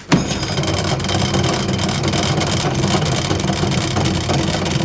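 Last Chance Archery EZ Green bow press being cranked in, its mechanism chattering and rattling steadily. The noise comes from the rubber wheel inside the press running short of grease.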